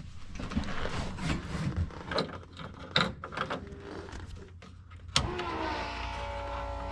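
Scattered clicks and knocks, then about five seconds in a sharp click and a steady electric whir from a small motor: the start sequence of the car's motorcycle engine, just before it fires.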